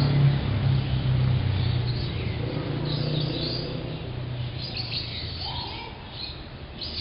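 Birds chirping in short high bursts, over a low steady hum that dies away a few seconds in.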